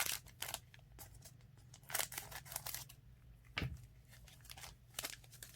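Scissors snipping open a trading card pack, its plastic wrapper crinkling, in a few short clusters of sharp snips and crackles.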